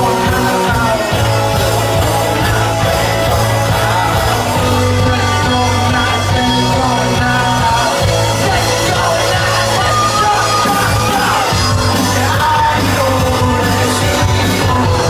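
Live rock band playing a song at full volume, with a steady low bass line and a voice singing over it.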